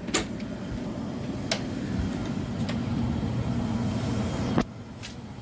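A 1995 Tempstar 3-ton central air conditioner's outdoor unit, Copeland reciprocating compressor and condenser fan, running steadily with a few light clicks. Near the end there is a sharp knock, after which the running sound drops much quieter.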